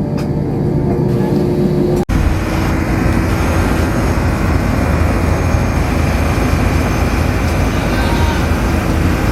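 Steady vehicle noise, a constant rushing drone with a low hum, broken by a brief cut about two seconds in.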